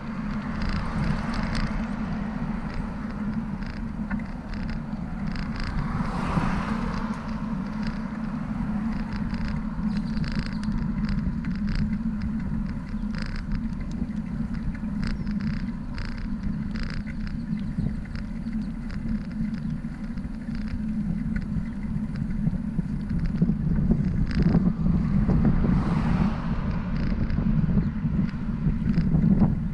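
Steady fluttering rumble of wind and road noise on a bicycle-mounted camera riding along a city street, with scattered light rattling clicks. Passing traffic swells up about six seconds in and again near the end.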